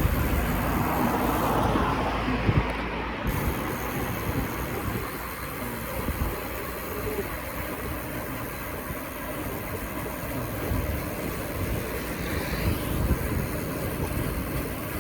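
Mountain bike rolling along a trail, with wind buffeting the microphone and a steady low rumble.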